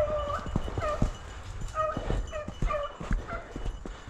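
Hunting dog baying in short repeated calls, one longer call at the start and then several short ones, the sound of a hound running a rabbit's scent trail.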